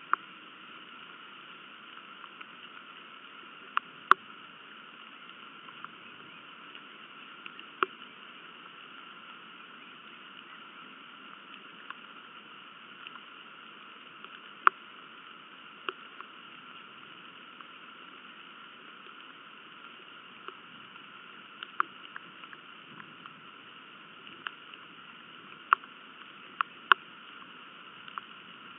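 Steady rain hiss, with loud sharp taps of raindrops striking close by at irregular intervals every few seconds.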